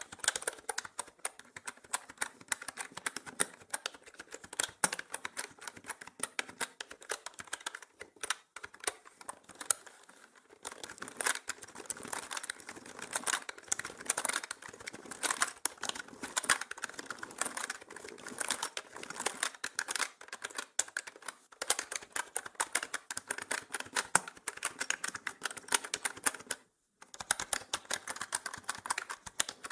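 Mechanical keyboard typing: fast, continuous key clicks and clacks, with a brief lull about a third of the way in and a short silent break near the end. It is processed with an 8D effect that pans it around the listener.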